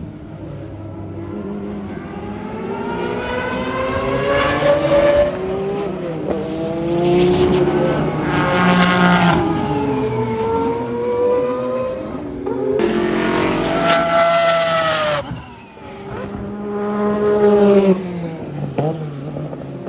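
Historic IMSA GTP prototype race cars passing one after another at full speed. Each engine note rises as the car approaches and falls away as it goes by, about five passes in all.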